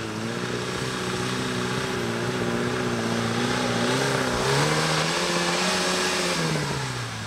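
Off-road 4x4's engine running under throttle. It rises in pitch about four and a half seconds in, holds there for about two seconds with a rushing noise, then drops back.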